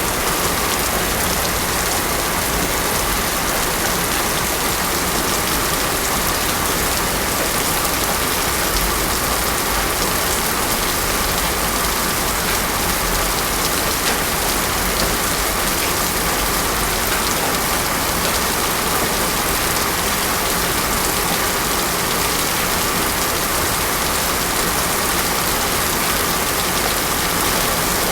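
Heavy rain falling steadily on a paved road, a constant dense hiss and patter with no thunder.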